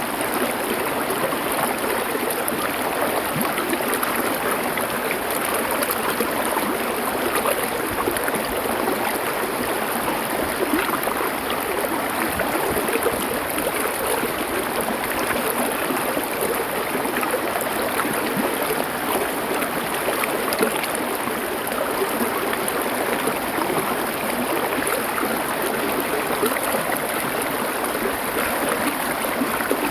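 Stream water flowing over stones: a steady, even rush and babble with no change.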